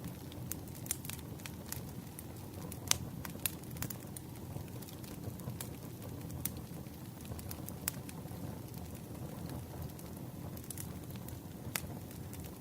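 Wood campfire burning: a steady low rush of flame with irregular sharp crackles and pops, the loudest pop about three seconds in.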